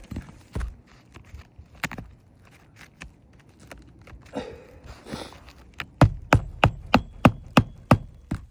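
Hammer blows on an asphalt shingle roof: a few scattered knocks, then, about six seconds in, a quick regular run of about eight strikes, roughly three a second.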